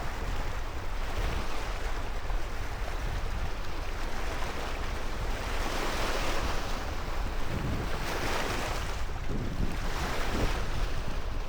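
Wind buffeting the microphone over a steady rush of water, with the hiss swelling a couple of times midway.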